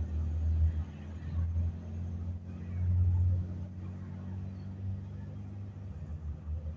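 Amtrak train rolling over a camera set between the rails: a deep steady rumble with louder swells about one and three seconds in, easing slightly toward the end.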